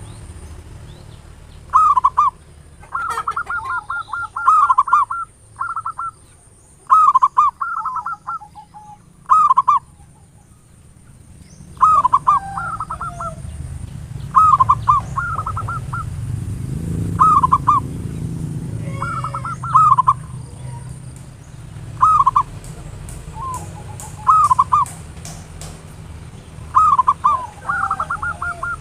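Zebra doves (perkutut) cooing: short rolling coo phrases, repeated every one to three seconds, over a steady low hum.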